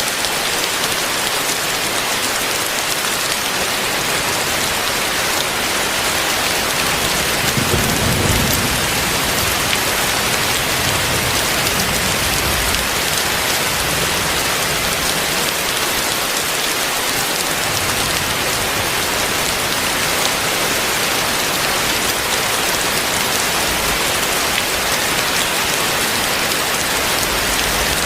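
Heavy rain falling steadily in a dense, even hiss, with a brief low rumble about eight seconds in.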